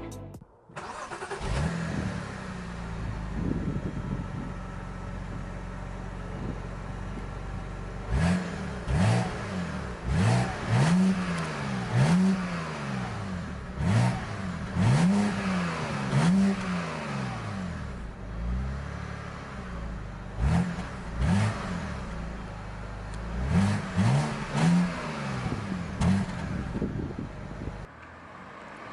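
BMW 325i E91's inline-six starting up about a second in and settling into an idle. From about eight seconds in it is blipped repeatedly, each rev rising and falling quickly, about one a second, with a short idle pause before a second run of revs.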